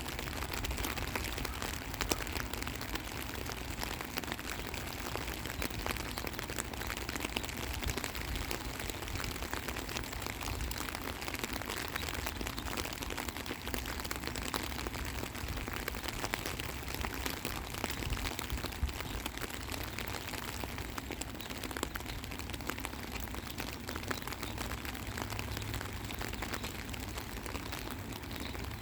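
Steady rain falling, a constant patter of drops with many small ticks throughout.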